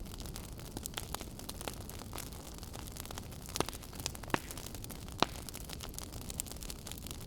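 Wood fire in a fireplace crackling, with a steady low rumble of flames and many small snaps. A few sharper pops come about three and a half, four and a half and five seconds in.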